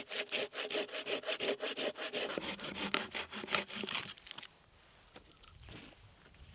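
Hand saw cutting through a wooden log in quick, even back-and-forth strokes, stopping about four and a half seconds in.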